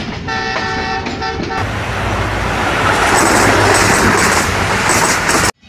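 Intro sound effect: a horn sounding a chord of several tones for about a second and a half, then a loud rushing noise of a train passing at speed that builds and cuts off suddenly near the end.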